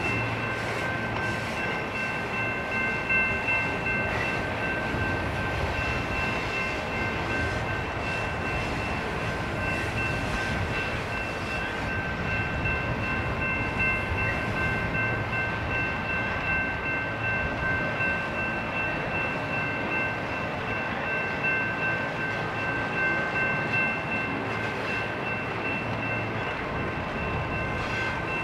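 Intermodal freight train rolling past very slowly: a steady rumble of the cars on the rail, with a few thin, steady high-pitched tones held over it.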